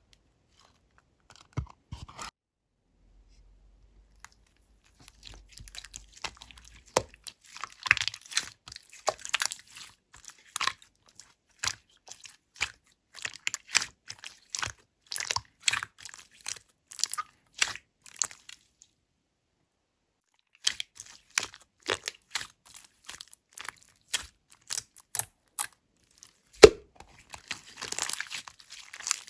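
Clear slime with gray add-ins being squeezed and pressed by hand, giving quick irregular crisp clicks and pops. It pauses briefly twice.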